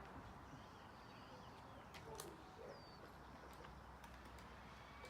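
Near silence with faint outdoor background, and a couple of short faint bird chirps.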